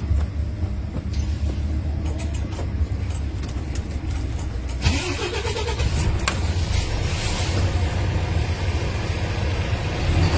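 Volvo D11K 11-litre six-cylinder diesel in an FM 410 tractor unit running at idle with a steady low rumble. About five seconds in, a short rising whine sounds and a hiss comes in, with a few clicks.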